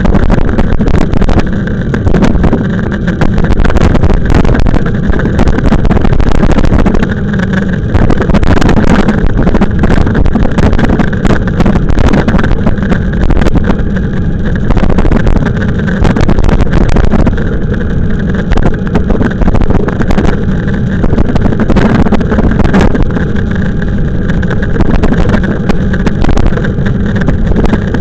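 Wind buffeting the microphone of a camera riding on a moving e-bike: a loud, low rumble that swells and dips every second or two.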